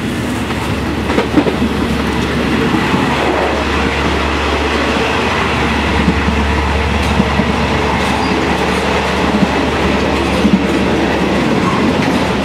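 Passenger train running, heard from inside a sleeping carriage: a steady, loud rumble with the odd sharp click.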